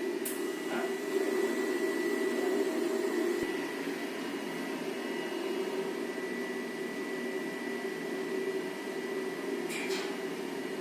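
Powder coating equipment running: a steady fan-like hum with a thin, high steady whine above it, and a couple of faint clicks.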